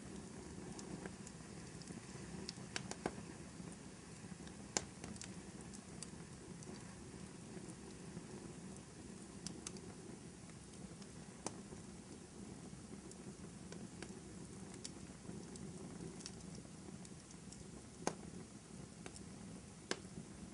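Fireplace crackling: a low steady rumble of burning wood with scattered sharp pops and snaps, the loudest about 5 s in and near the end.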